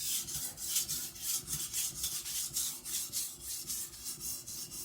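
Steel knife blade (a thick custom chopper) stroked back and forth on a wet, coarse JNS 300 whetstone, a gritty rasp at about three strokes a second, raising a burr along the edge.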